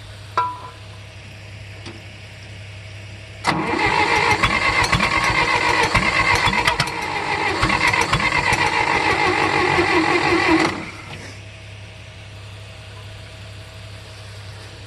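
1964 John Deere 1010 tractor's gasoline engine cranked by its starter for about seven seconds, beginning about three and a half seconds in, then stopping without catching. It is the first start of the year after about six months standing, on a carburetor the owner is sure needs rebuilding.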